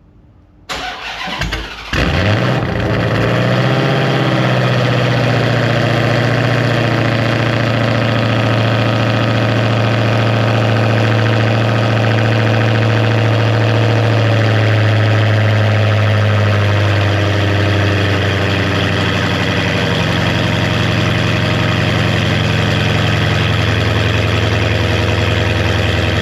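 A Hellcat's supercharged 6.2-litre HEMI V8 is cold-started. The starter cranks for about a second before the engine catches, flares, then settles into a loud, steady cold high idle.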